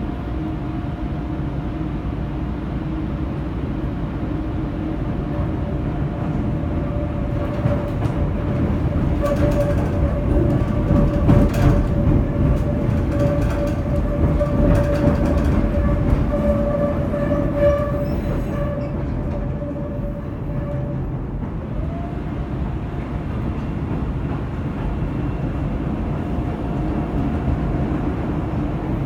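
CTA Brown Line elevated train heard from inside the car, with a steady rumble of wheels on rail. Clicks and knocks come through the junction's switches from about 9 to 12 seconds in, and a steady wheel squeal sounds on the curve, strongest between about 9 and 21 seconds, then fades.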